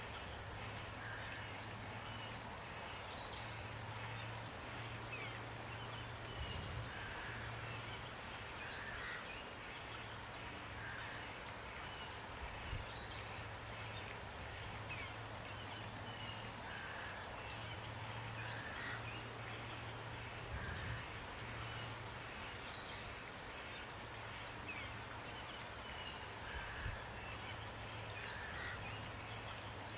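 Small songbirds chirping and twittering over and over in high, quick, down-sweeping notes, with a lower call now and then, over a steady hiss of rain.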